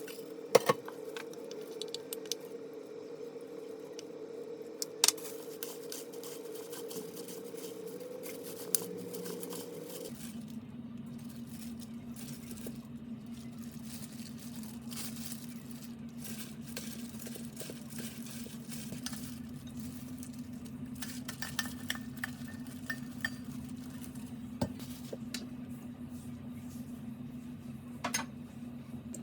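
Kitchen work: dishes and utensils clinking and knocking now and then over a steady background hum, which drops in pitch about ten seconds in.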